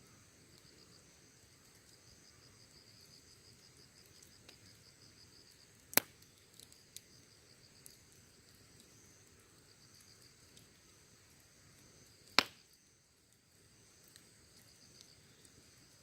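Wood fire burning with two sharp, loud pops, about six seconds in and again about twelve seconds in, and a few faint crackles between them. Insects chirp steadily in the background, dropping away briefly after the second pop.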